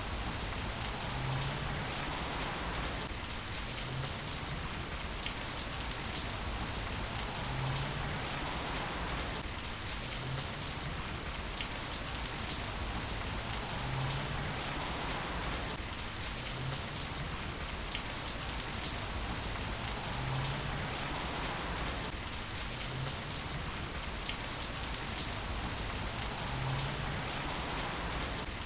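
Heavy rain falling in a steady, even hiss, with scattered sharper drop hits.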